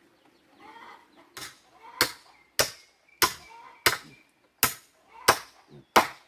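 Steady chopping with a blade into wood, about three blows every two seconds, eight blows starting a little over a second in. Chickens cluck faintly before the blows begin.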